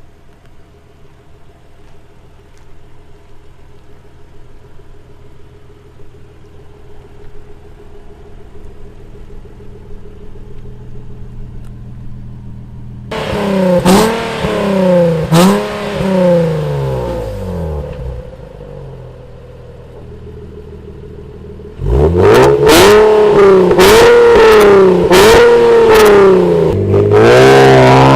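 Nissan 370Z's 3.7-litre V6 through an Armytrix valved exhaust, idling steadily and slowly getting louder, then blipped twice in sharp free revs that drop back to idle. Near the end it is revved hard again in a quick run of about six blips.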